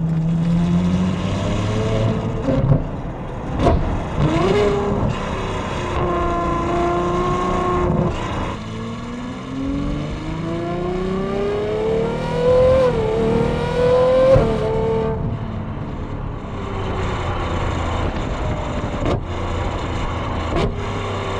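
Ferrari 812 Superfast's V12, fitted with Novitec catless downpipes and X-pipe, running under light load while warming up on a test drive. Its note climbs in pitch as the car accelerates, with a gear change about twelve and a half seconds in and a drop in revs around fifteen seconds in.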